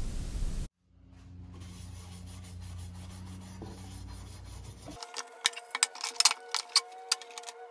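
Blast cabinet hissing as a blast gun strips a toy part, cut off suddenly under a second in. Then a shop rag rubs acetone over the bare, blasted metal toy truck parts, with ticking music coming in about two-thirds of the way through.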